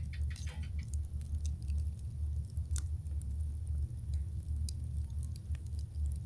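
Campfire crackling: scattered sharp pops and snaps at irregular intervals over a low, constant rumble.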